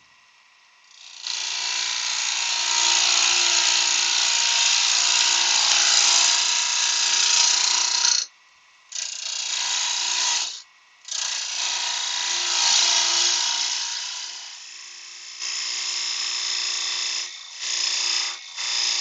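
Turning tool cutting the outer surface of a spalted beech blank spinning on a wood lathe: a loud hissing cut that starts about a second in and breaks off briefly three times as the tool is lifted. It is a clean-up cut against tear-out on the end grain, with the lathe speed turned up.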